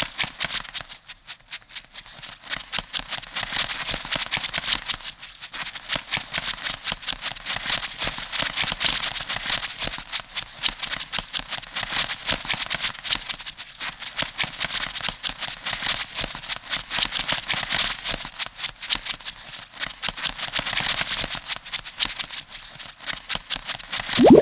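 Crab sound effect: a fast, dense rattle of clicks that runs on without a break.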